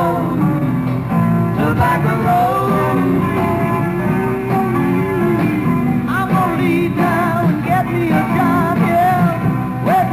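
Live 1960s rock band playing, with singing over electric guitar and bass.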